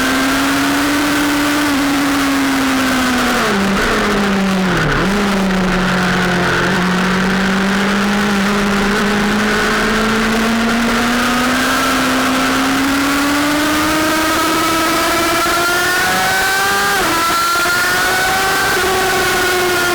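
Sportbike engine running at speed on a racetrack. Its pitch falls about four to five seconds in as the revs drop, then climbs steadily and drops sharply at a gear change about seventeen seconds in, before rising again.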